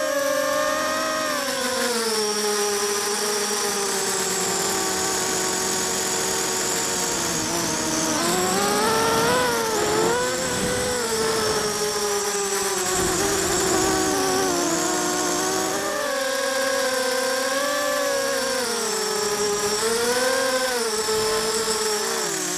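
Quadcopter with DYS BE1806 brushless motors spinning 5040 propellers, buzzing continuously in flight, its pitch rising and falling as the throttle is worked.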